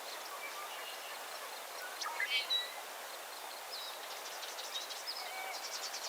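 Several birds calling and singing: short whistled notes and sweeps, with rapid high trills about four seconds in and again near the end, over a steady background hiss.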